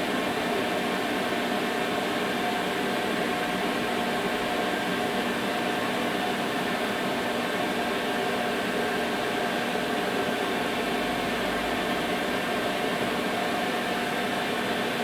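Electrolux Z561 Twin Turbo Electronic Deluxe vacuum cleaner running steadily: a motor whine of several held tones over a rush of air, on its first test run and working.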